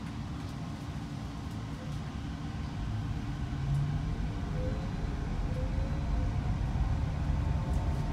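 Canada Line Hyundai Rotem electric train running along elevated track, heard from inside the front car: a steady low rumble that grows a little louder about three seconds in, with a faint rising whine.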